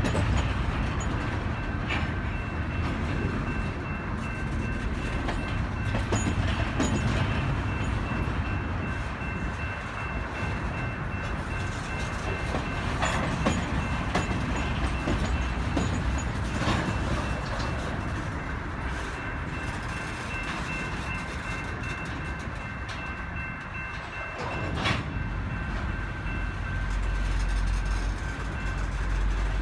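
Train rolling through the rail yard: a steady rumble of wheels on track with occasional sharp knocks. A faint steady high-pitched tone runs over most of it, and the low rumble swells near the end.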